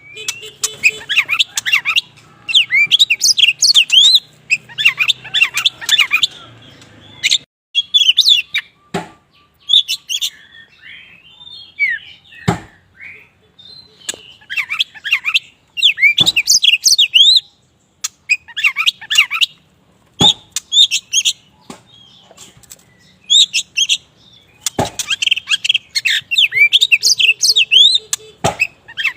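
Black-plumaged Oriental magpie-robin (the 'kacer wulung' form) singing in full voice: bursts of fast, varied chirps and whistled notes with short pauses between phrases. Several sharp clicks sound in between the phrases.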